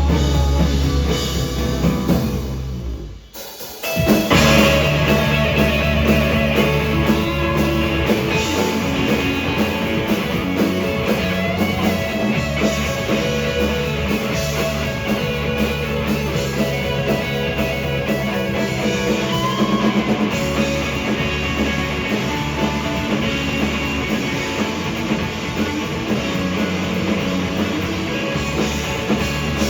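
Rock band playing live with electric guitar and drum kit, no singing. The band drops out briefly about three seconds in, then crashes back in at full volume and plays on steadily.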